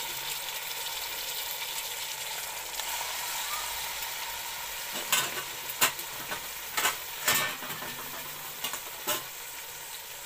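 Chopped tomatoes sizzling in hot oil and fried garlic paste, a steady hiss. Several sharp knocks of a utensil against the steel pot come between about five and nine seconds in as the pan is stirred.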